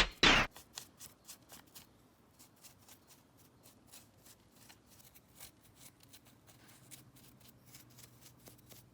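A music cue cuts off right at the start. Then come faint, quick scratching strokes, several a second, of drywall being carved by hand.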